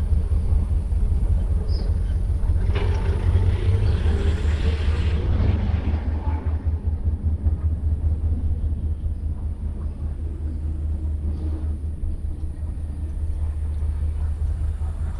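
A vehicle rumbling past, loudest in the first few seconds, then slowly fading away.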